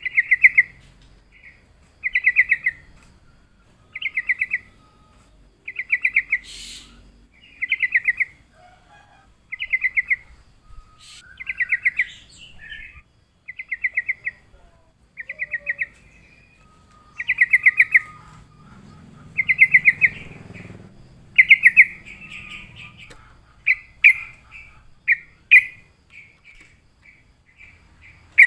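Yellow-vented bulbul (trucukan) singing: a short, rapid run of clear notes repeated about every two seconds, breaking into quicker, shorter chirps near the end.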